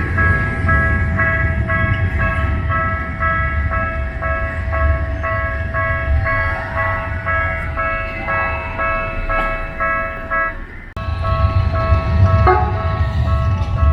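Japanese level-crossing warning alarm ringing over and over in short electronic clangs about twice a second, over a steady hum and the low rumble of street traffic. The sound breaks off for a moment about eleven seconds in, then carries on.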